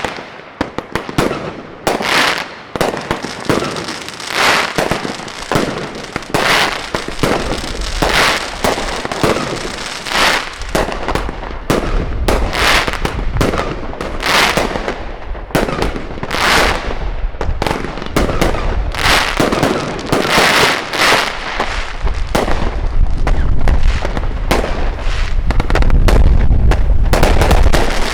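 Fireworks going off in rapid succession: sharp bangs and crackling reports, often several a second. A low rumble builds under them from about halfway on.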